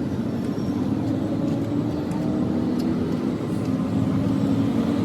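Steady engine hum, a motor running at an even speed.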